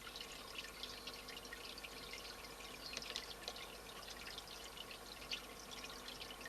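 Water trickling and dripping, a dense, even patter of small splashes, over a faint steady hum.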